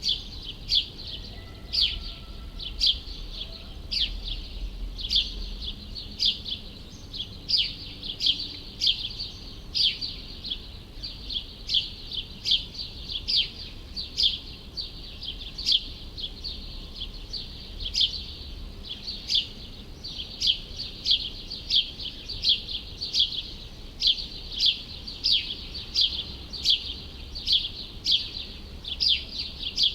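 A bird chirping over and over in short, clear chirps, one to two a second without a break, over a low, steady city rumble.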